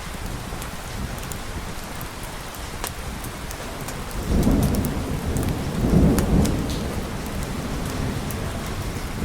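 Steady rain with a low thunder rumble that builds about four seconds in, swells again near six seconds, then fades back into the rain.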